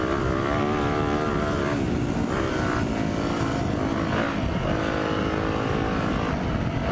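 Single-cylinder four-stroke dirt bike engine running steadily while riding a trail, its pitch rising and falling with the throttle, over a rough low rumble.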